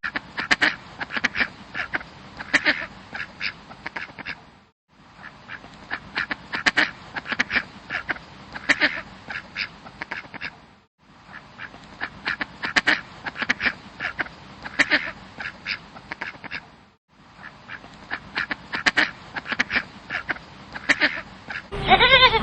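A bird giving rapid series of short, sharp calls, the same run repeating about every six seconds with a brief silent break between repeats.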